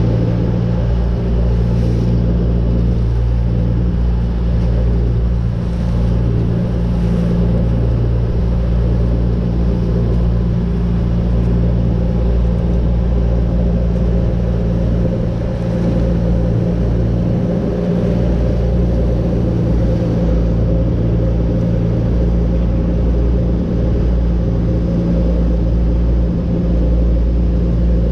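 Motorboat engine running steadily at a constant speed, a loud low hum with rushing noise over it.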